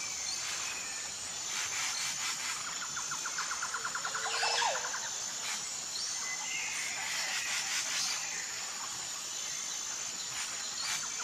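Wild birds chirping and calling over a steady high-pitched insect drone, with a rapid rattling bird trill about three seconds in.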